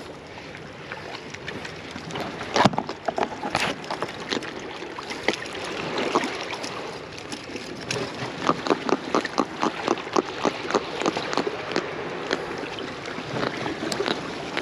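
Ocean surf washing on the beach, with a sharp knock about two and a half seconds in and a run of quick taps and clicks in the middle.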